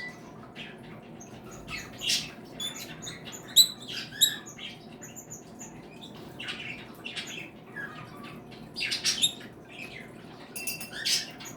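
A room of pet parakeets and finches chirping and squawking in scattered short calls, a few louder squawks standing out, over a steady low background noise.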